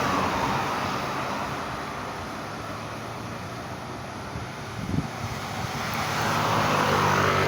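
Vehicles passing on a hill road: one passes and fades away over the first couple of seconds. Then another heavy vehicle's engine and tyres grow louder as it approaches near the end.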